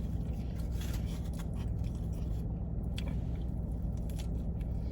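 Close-up chewing of a bite of sub sandwich: irregular wet mouth clicks and soft crunches. A steady low hum runs underneath.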